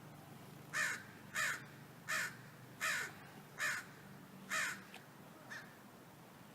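A crow cawing six times in a steady series, followed by a fainter seventh caw.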